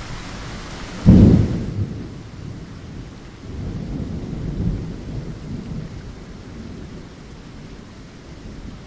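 Steady rain with a sudden loud thunderclap about a second in, followed by low rolling thunder that swells and fades. The hiss of the rain drops away after the clap, leaving mostly the low rumble.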